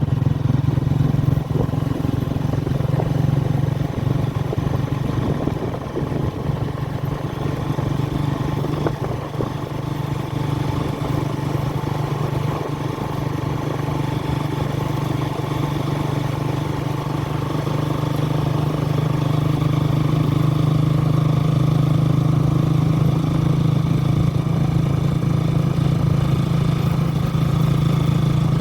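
An engine running steadily with a constant low hum, which changes little over the whole stretch.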